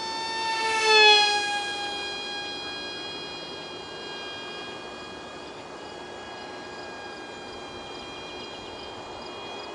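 Ultra micro RC foam jet's 8 mm motor and direct-drive prop whining in flight. It passes close about a second in, loudest there, with the pitch dropping as it goes by, then the whine holds steady and softer.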